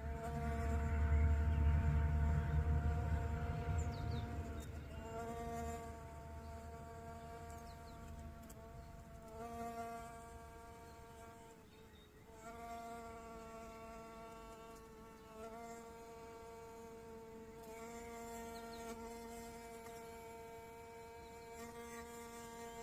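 Bee-fly hovering, its wings giving a steady, even-pitched buzz that breaks off briefly and resumes several times. A low rumble runs under the first few seconds.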